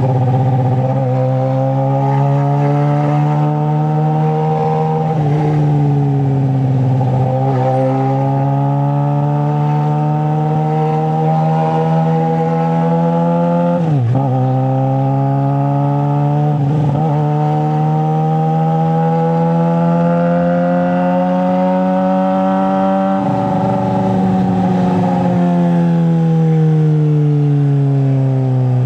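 Straight-piped 2009 Suzuki GSX-R600 inline-four running under way at moderate revs, its pitch creeping slowly upward for several seconds at a time, broken by a handful of brief sharp dips in pitch that quickly recover.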